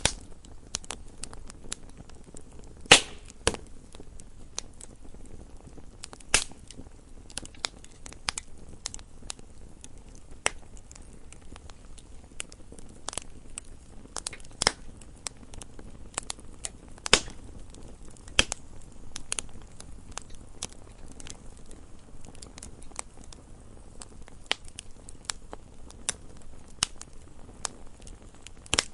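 Wood fire burning in a fireplace, crackling and popping at irregular intervals over a low steady rumble, with a few louder pops scattered through.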